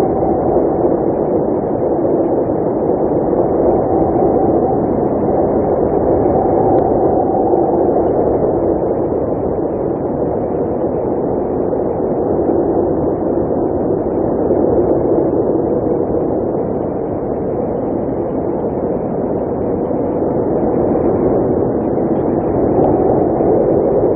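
Blizzard wind blowing steadily: a low, dull rushing noise whose tone swells and shifts slowly, with no high hiss.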